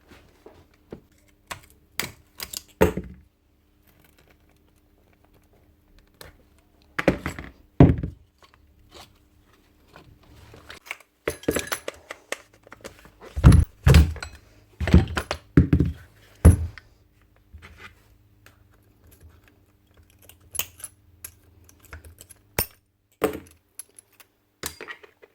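Scattered knocks, clicks and thunks of hand tools and metal parts handled on a workbench as a Bosch 11318EVS rotary hammer is taken apart, with heavier thuds about seven seconds in and again in a cluster near the middle.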